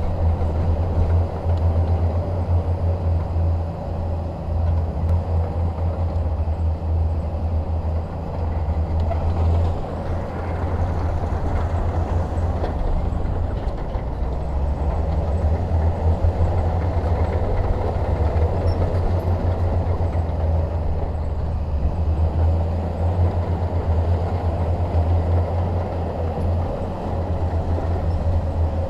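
Bulldozer's diesel engine running steadily as a continuous low drone, with a rougher mid-range rumble and slight dips in level now and then.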